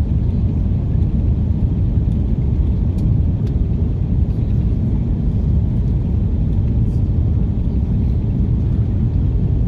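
Steady low rumble of an Airbus A330-343's cabin noise, its Rolls-Royce Trent 700 engines and airflow heard from inside the passenger cabin.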